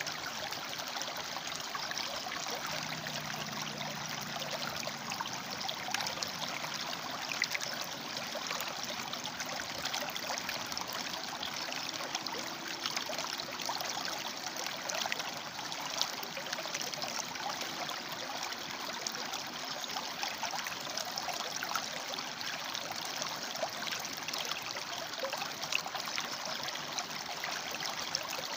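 River water flowing and splashing steadily over and between rocks, with a continuous babbling rush.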